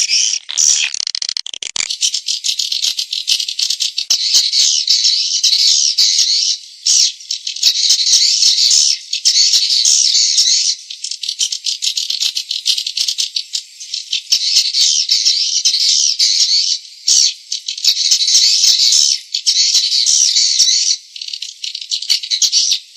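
Swiftlet lure recording: a dense, high-pitched chattering twitter of many swiftlets, rapid clicking trills with short breaks every few seconds and nothing in the low register. It is the call sound played from swiftlet houses to draw the birds in to roost and nest.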